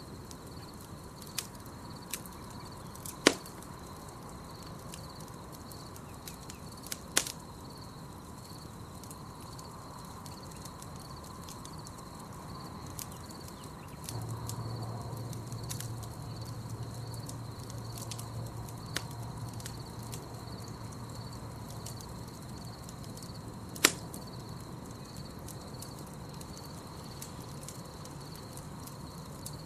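Campfire crackling with scattered sharp pops, three of them loud, over a steady high insect trill. A low hum joins about halfway through for several seconds.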